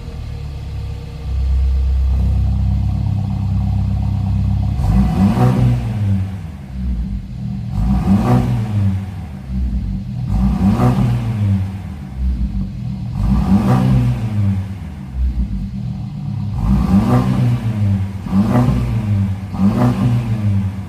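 Mercedes-Benz C200 engine heard through a valved active exhaust: idling, stepping up to a louder steady idle about two seconds in, then blipped about seven times, each rev rising and falling back to idle.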